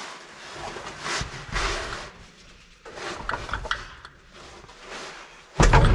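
Scattered knocks and rustling as a heavy truck transmission is worked into place against the engine, then one loud heavy thud near the end.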